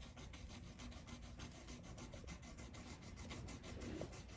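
A pencil or pen scribbling quickly on paper in rapid, closely spaced circular strokes, drawing messy smoke circles.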